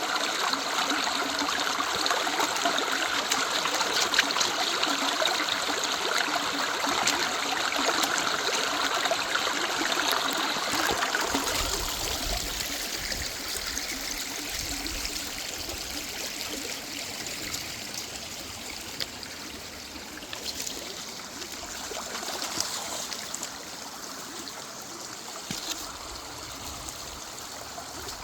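River water running steadily. About twelve seconds in, the rush of water becomes quieter.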